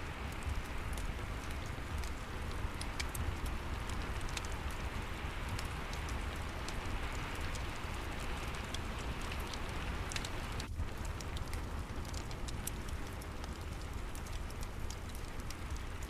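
Steady rain falling, mixed with a fireplace crackling in many small, sharp pops. The whole bed drops out for an instant about two-thirds of the way through.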